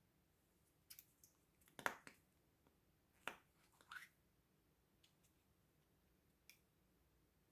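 Slime being handled: a few short, quiet sticky pops and clicks, the loudest about two seconds in, with long quiet gaps between.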